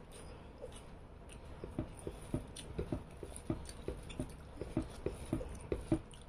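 Close-up chewing of a mouthful of rice and fish curry, with wet mouth smacks repeating about twice a second from about a second and a half in.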